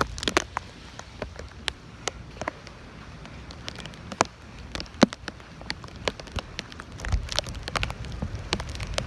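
Raindrops striking close to the microphone in irregular sharp taps, a few of them louder, over a light patter of storm rain. A low wind rumble on the microphone comes back near the end.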